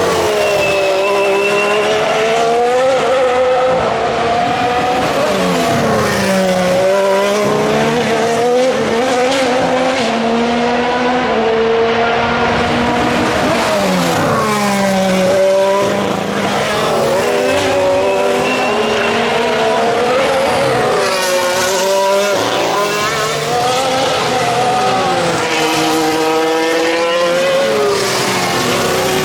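Formula 1 cars' 1.6-litre turbocharged V6 hybrid engines going through a chicane one after another, often two at once. Each engine's pitch falls as the car brakes and changes down, then climbs again as it accelerates out.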